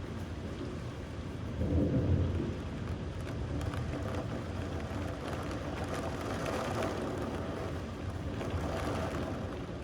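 Steady rain with low, rolling thunder; the rumble swells about two seconds in and again more softly later.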